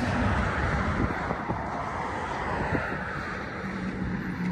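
Rumble and rail noise of a double-stack freight train rolling past, with wind on the microphone, thinning out about halfway through; a steady low hum comes in about three seconds in.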